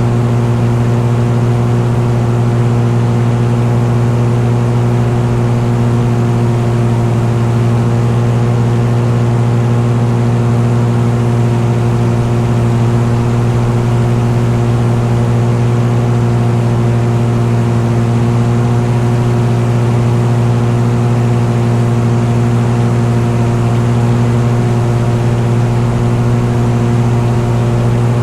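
Engine running at a steady, unchanging speed: a constant low drone with no revving up or down.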